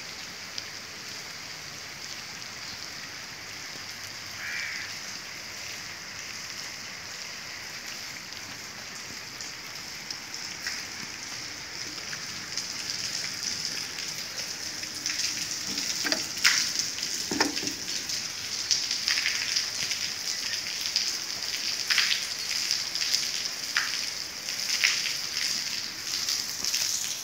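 Heavy rain falling in a steady hiss. About halfway through it grows louder and closer, crackling with many sharp spattering drops and a few knocks.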